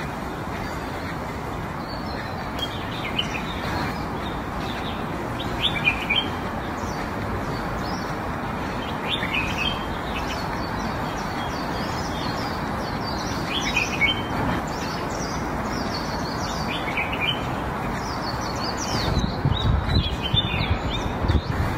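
Small birds chirping on and off over steady background noise. About nineteen seconds in, a run of irregular low crunching knocks begins: a giant panda biting and chewing bamboo.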